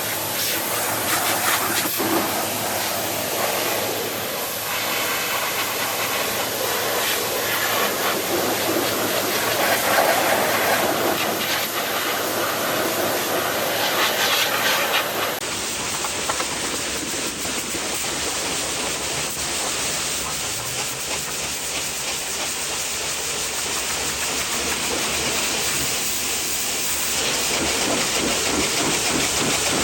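Pressure washer spraying water, a steady loud hiss whose character changes abruptly about halfway through.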